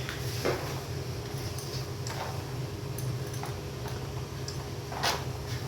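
A few light metallic clinks and taps, a second or more apart, over a steady low hum.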